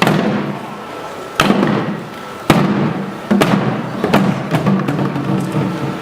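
Samulnori percussion played by kindergarten children: sharp strikes about a second apart that come faster after about three seconds, as the piece gets going.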